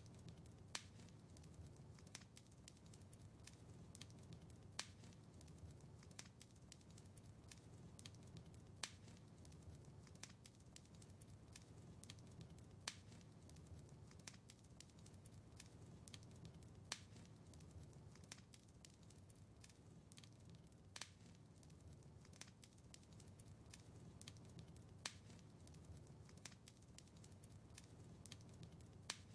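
Wood fire in a fireplace crackling: frequent small snaps over a low, steady rumble of flames, with a louder pop about every four seconds.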